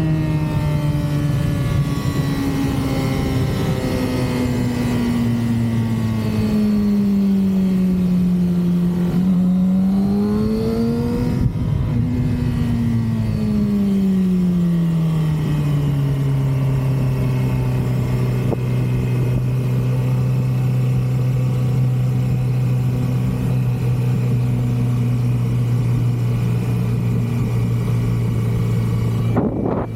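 2006 Yamaha R6's stock inline-four engine running under way. Its note falls slowly over the first nine seconds, rises briefly around ten to twelve seconds in, then drops and holds steady at a lower pitch.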